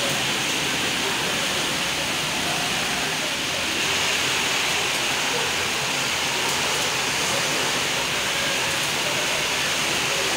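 Heavy cyclone rain falling hard, driven by strong wind: a dense, steady rush without a break.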